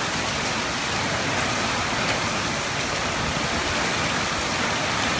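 Heavy rain pouring down in a dense, steady hiss during a summer thunderstorm.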